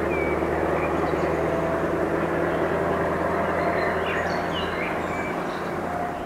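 Scania 164L 480's V8 diesel running with an open howler pipe exhaust, a steady deep engine note that fades a little near the end.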